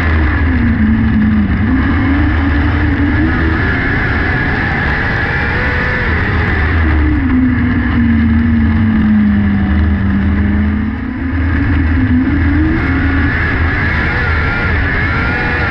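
600cc micro sprint car's motorcycle engine running hard at racing speed. Its pitch drops and climbs back twice as the driver lifts off and gets back on the throttle through the turns.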